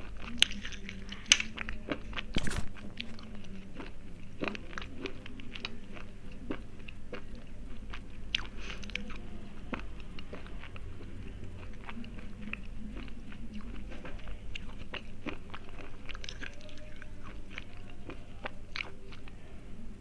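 A person biting and chewing crunchy slate pencils: a few loud snaps in the first three seconds, then a steady run of crunching.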